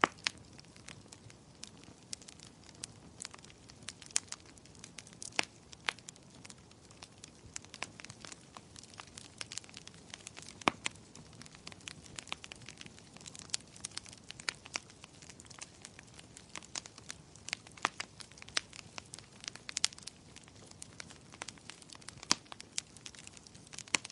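Wood fire burning in a fireplace, crackling and popping irregularly over a soft steady hiss, with one louder pop about halfway through.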